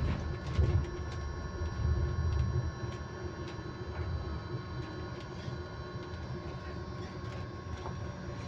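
Interior of a moving electric bus: a steady whine held at a constant pitch, several tones at once, over low road rumble. Light rattles tick throughout, with louder bumps about half a second and two seconds in.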